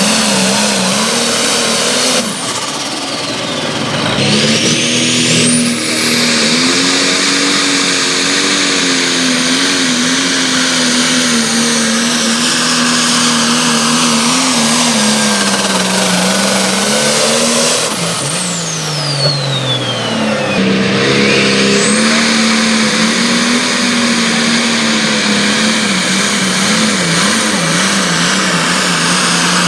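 A pulling vehicle's engine running at high revs under load as it drags the weight sled. Its revs sag twice and climb back, with a high whistle sweeping down and then back up each time.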